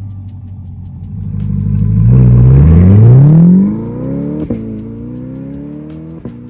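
Chevrolet C8 Corvette's 6.2-litre V8 through an aftermarket Paragon exhaust, accelerating hard: the pitch climbs steeply and loud, then the level eases and the pitch keeps rising, with two quick upshifts about halfway through and near the end, each marked by a sharp click.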